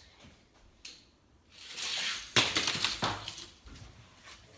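Die-cast toy car rolling down a track with a rising hiss, then a sharp clatter about two and a half seconds in and a few smaller knocks: the car hitting and tumbling after the jump instead of landing cleanly.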